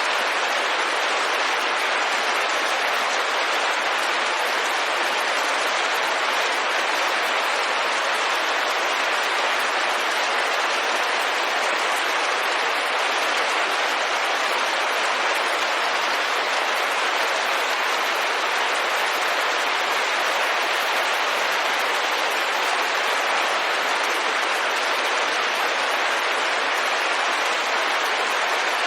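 Steady rain falling on a window, a constant even hiss with no separate drops standing out.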